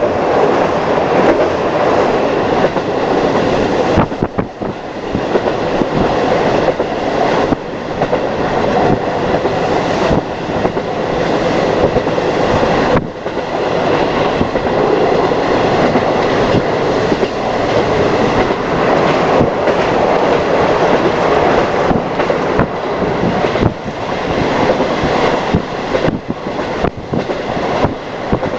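Train running along the line, heard from aboard: a loud, steady rumble with many irregular clicks from the wheels over the rails.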